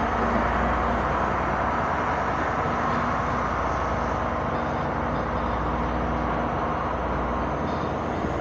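Diesel passenger train running steadily: a continuous engine drone mixed with wheel and rail noise, heard from the carriage right behind the locomotive.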